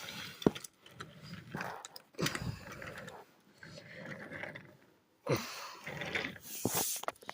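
Wooden toy trains rolling along wooden railway track, with irregular clicking and rattling.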